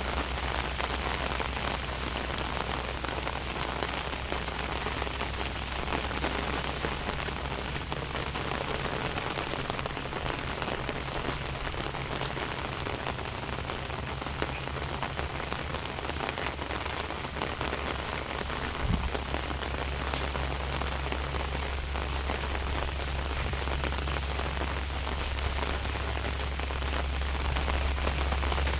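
Steady rain falling, with a constant low rumble underneath and one short sharp tap about two-thirds of the way through.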